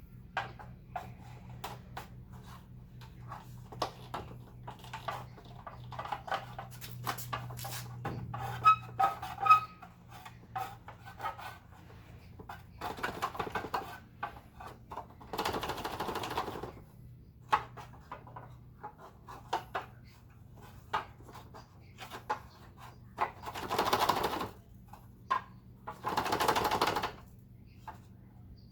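Hard plastic parts of a vacuum cleaner being handled during disassembly and cleaning: irregular clicks and taps, with four brief bouts of scraping, each about a second long.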